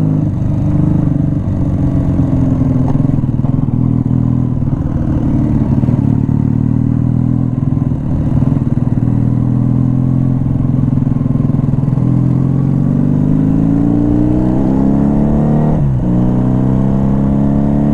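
Motorcycle engine running under way at a steady speed, then climbing in pitch over a few seconds as it accelerates, with a sudden drop in revs at a gear change near the end.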